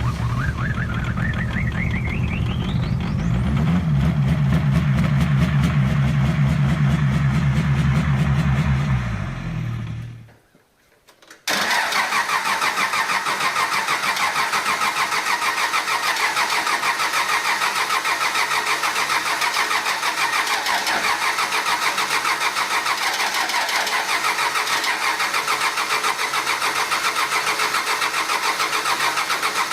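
A diesel engine runs with a deep hum and a whine that rises steadily in pitch over the first few seconds, then fades out about ten seconds in. After a brief gap a second diesel engine idles steadily with a rapid, even clatter.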